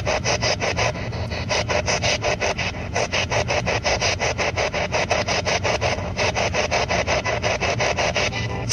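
Spirit box radio sweeping through stations, giving a fast, even chatter of static bursts, about six or seven a second.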